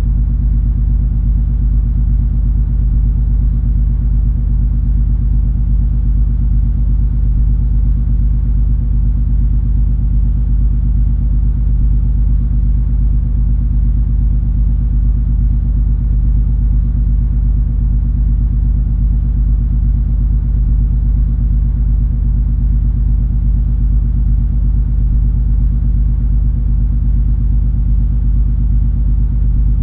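Steady low rumble and hum of the MS Color Fantasy cruise ferry's engines under way, with a few constant low droning tones and no change in speed or load.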